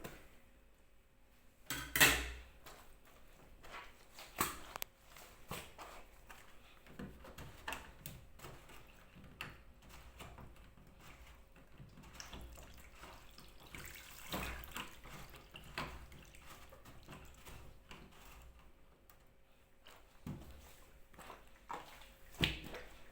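Dirty water dripping and trickling out of a washing machine's drain-filter opening into a small tin, with scattered small splashes and a few louder knocks of handling. The machine cannot pump out on its own because its drain pump has failed, so the water is being let out by hand.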